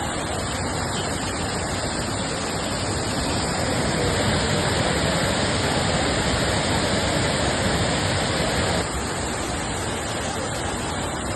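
Heavy rain with a steady rush of water. It grows louder about three and a half seconds in and drops suddenly near nine seconds.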